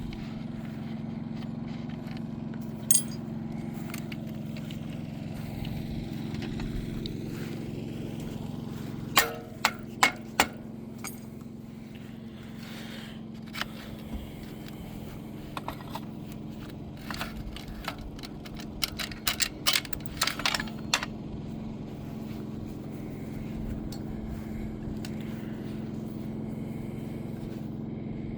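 A steady low mechanical hum, like an engine running at a constant speed. Over it come sharp clicks and knocks: one about three seconds in, a quick cluster about nine seconds in, and a denser run from about seventeen to twenty-one seconds.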